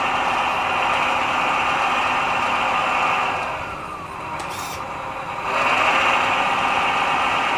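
ScaleArt MAN 8x8 RC model truck running with a steady mechanical whirr. Around the middle it eases off with a falling pitch and gives a short click, then comes back up to full level.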